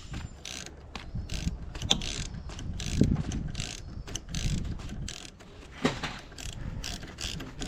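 Hand tools working bolts on a corn head: a run of short, irregular clicking strokes and metal clinks, a few a second.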